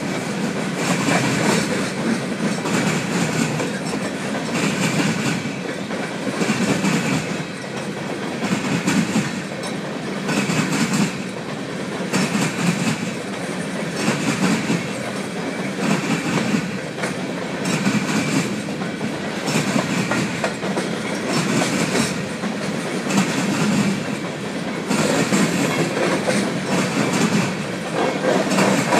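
Empty coal hopper cars of a freight train rolling past, their wheels clacking over the rail joints in a continuous run of knocks over a steady rumble.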